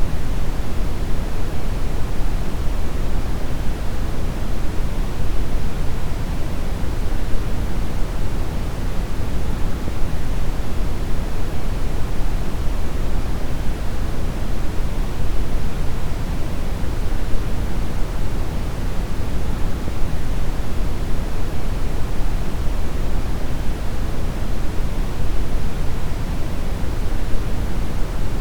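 Deep brown noise: a steady, even rumbling hiss weighted heavily toward the low end, with no change throughout.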